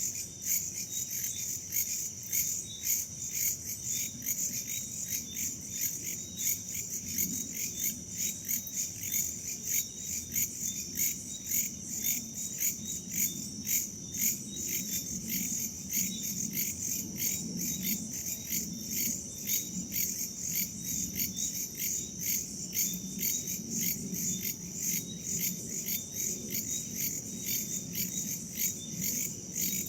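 Crickets and other insects chirping in a dense, even chorus: a steady high-pitched trill pulsing several times a second. Underneath there is a faint low rush of wind.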